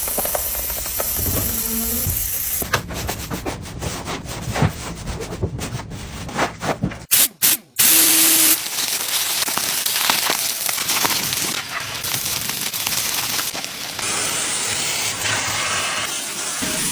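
Water hissing from a pressure washer spraying onto a car, cut into several shots with abrupt changes and a few short choppy bursts near the middle.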